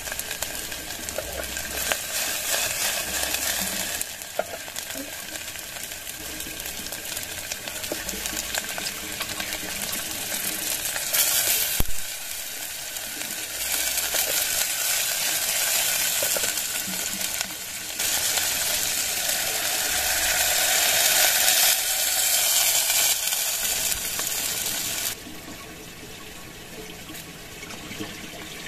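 Chicken feet frying in a small stainless saucepan: a steady, hissing sizzle that steps up and down in level several times and drops off sharply near the end.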